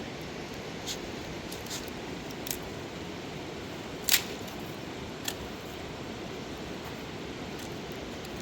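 Steady rushing of a river, with a handful of short sharp clicks or taps over it, the loudest about four seconds in.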